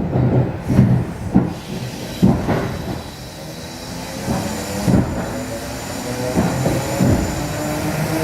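ED4M electric multiple unit getting under way: wheels knock irregularly over rail joints and points for the first few seconds. After that the traction motors' whine rises steadily in pitch as the train gathers speed.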